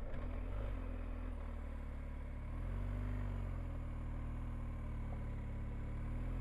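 Motorcycle engine running at low revs while climbing, its note dipping and rising again twice as the throttle is eased and opened.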